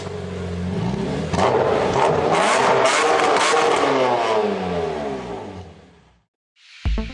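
BMW 120d's 2.0-litre four-cylinder turbodiesel running on a dyno: it climbs steadily in pitch from about a second in under a hard pull, then falls away as it runs down and fades out. Electronic music with a beat starts just before the end.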